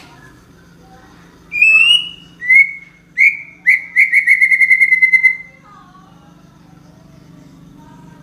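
A songbird sings one loud phrase of a few clear whistled notes, then a fast trill of about a dozen notes lasting over a second. Fainter chirps from other birds come before and after.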